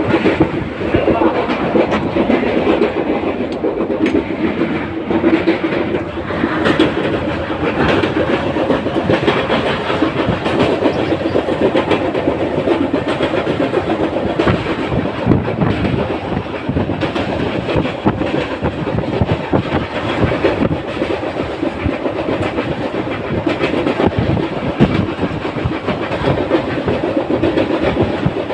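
A train running along the track, its wheels clattering over the rail joints in a continuous steady rumble with frequent sharp clicks.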